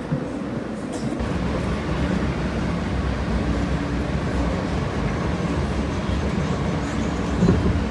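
New York City subway train running between stations, heard from inside the car: a steady rumble of wheels on rail and traction motors with a faint humming tone, growing louder about a second in and swelling briefly near the end.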